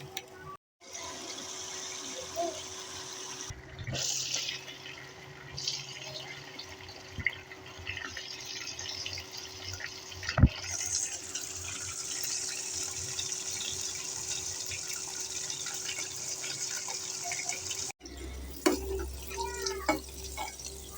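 Water running from a tap into a sink, in several stretches broken by abrupt cuts, with a sharp knock about ten seconds in.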